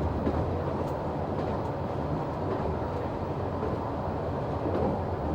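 Noto Railway NT100 diesel railcar running along the line: a steady drone of engine and wheels on rail, with a few faint clicks.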